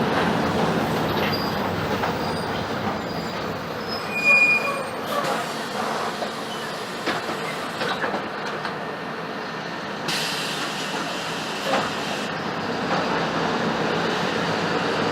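Mercedes-Benz OF-1721 BlueTec 5 city bus running, heard from inside: steady engine and road noise with body rattles, and a brief high squeal about four seconds in.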